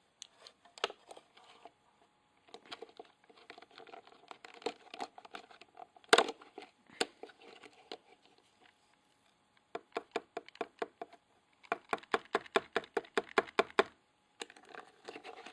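Small plastic USB vacuum cleaner being handled and its dust bin opened: scattered plastic clicks and crinkling, with one louder crack about six seconds in and quick runs of light clicking in the second half.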